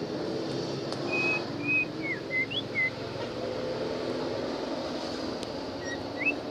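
A bird singing a phrase of short, clear whistled notes, some held level and some sliding up or down, about a second in, then two more notes near the end, over a steady low rumble.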